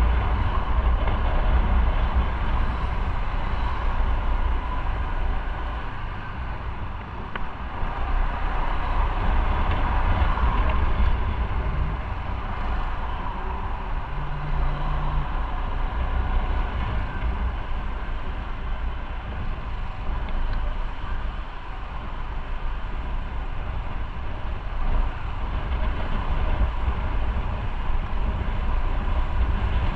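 Motorcycle riding on the road: engine running under way with heavy wind noise on the microphone, the level easing and rising again with speed.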